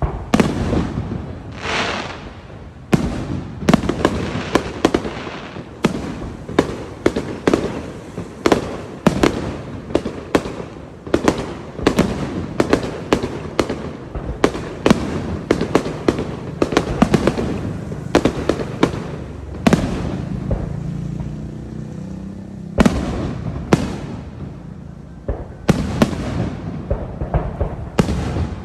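Fireworks display: a rapid, irregular barrage of aerial shells bursting with loud bangs, many to the second, each with a short echo, mixed with crackling. It eases briefly about twenty seconds in, then the bangs pick up again.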